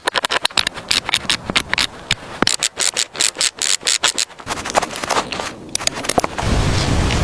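Hand sanding or rasping: quick, irregular rubbing strokes, several a second. About six seconds in, the strokes stop and a steady low noise takes over.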